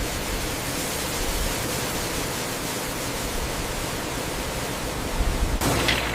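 Steady rushing noise that cuts abruptly to a different noise about five and a half seconds in, with a couple of short high-pitched squeaks near the end.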